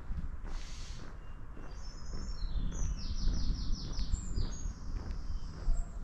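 A small songbird singing: a run of high chirps, with a fast trill of short repeated notes about three seconds in. A low, steady rumble runs underneath.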